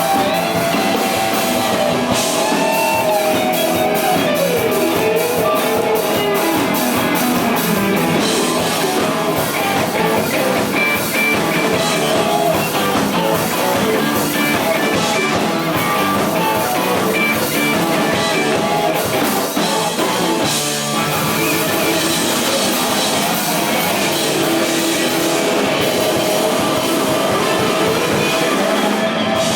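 Rock band playing live: loud electric guitar over a drum kit.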